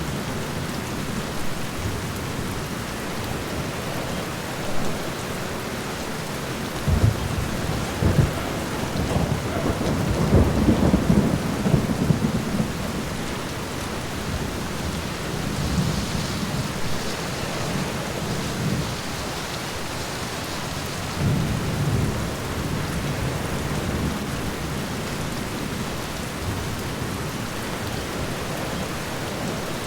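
Steady rain on a window with rolling thunder. A long rumble swells about seven to thirteen seconds in, the loudest part, and a shorter rumble comes about twenty-one seconds in.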